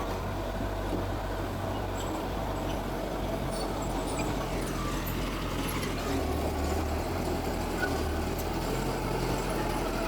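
Heavy diesel earth-moving machinery running steadily at a low, even engine speed.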